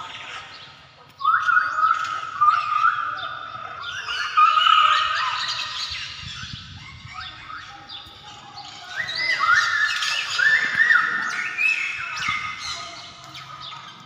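A flock of birds calling together: many overlapping short squawks and chirps, a lot of them rising in pitch, with louder bunches of calls about a second in and again from about nine to eleven seconds.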